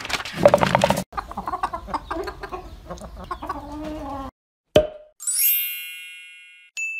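Cartoon hens clucking and cackling excitedly for about four seconds, then a sharp knock followed by a ringing chime that fades, and a second, higher ding near the end: cartoon sound effects as a mallet taps an egg.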